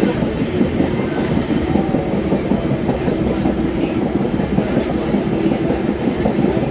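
Subway train running, its wheels clattering steadily over the rails. A steady hum joins in about three seconds in.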